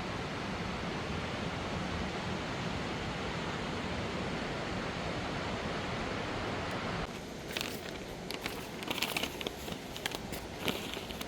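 Steady rushing of a waterfall. About seven seconds in it cuts off suddenly to a quieter background with irregular crackling steps on the trail.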